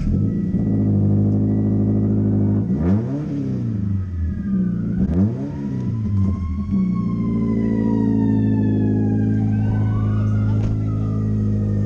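Car engine idling just after a cold start, blipped twice about three and five seconds in, rising and falling each time, then settling back to a steady idle.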